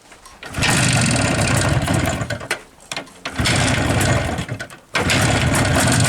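IZh two-stroke motorcycle engine being started: it catches about half a second in and runs loudly, cuts out twice, and picks up again each time.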